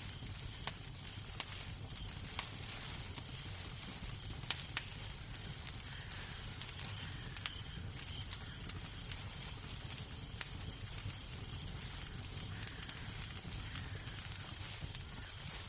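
Wood fire in a fireplace crackling: irregular sharp pops and snaps over a steady soft hiss and a low rumble.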